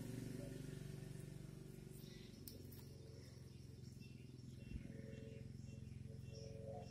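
Faint outdoor ambience: a low hum fades away over the first couple of seconds, then faint short bird chirps repeat about twice a second through the second half.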